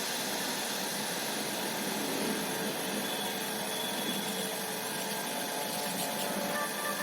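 Steady, even hiss with no music and no distinct events.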